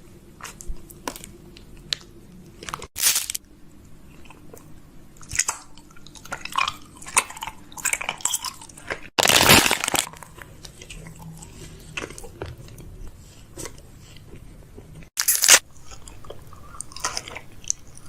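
Close-up clicks, taps and crunchy crackles of small objects being handled, broken by three short, loud rushes of noise.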